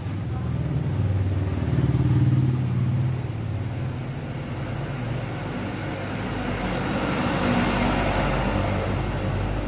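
A motor vehicle engine running, its rumble swelling about two seconds in and again near the end.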